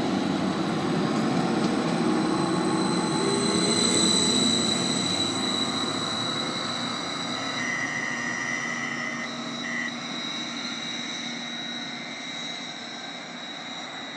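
Greater Anglia class 755 bi-mode multiple unit pulling away and receding down the line. A steady rumble with a high whine fades gradually as the train moves off.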